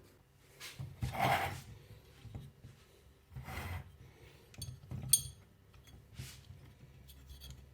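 Hands handling and fitting small metal parts and tools: a few brief rubbing swishes and small clicks, with one sharp, ringing metal clink about five seconds in.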